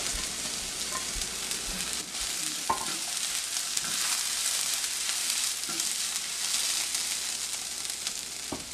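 Sliced onions and chopped garlic sizzling in hot oil in a nonstick wok, stirred with a silicone spatula, with a steady frying hiss and a couple of light knocks.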